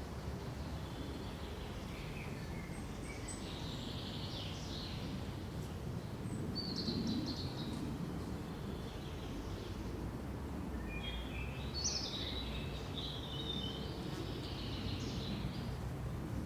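Small birds chirping and twittering in three short spells over a steady low rush of wind in the pines.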